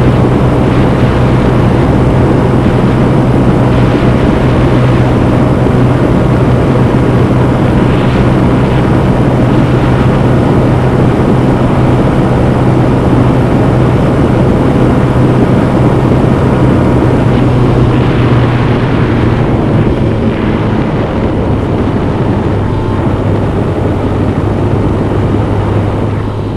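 Honda CB125F's air-cooled single-cylinder engine running steadily on the move, under a rushing haze of wind and road noise. About two-thirds of the way through, the engine note drops and the sound eases a little.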